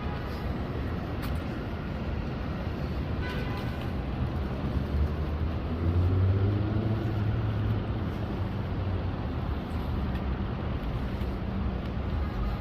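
Steady vehicle rumble with a low engine hum that swells and rises slightly in pitch around the middle, as of a vehicle pulling away or passing.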